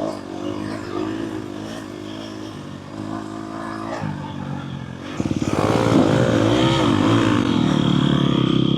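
Dirt bike engine idling steadily, then about five seconds in a louder dirt bike engine comes in close, revving up and down and holding at a high, steady pitch.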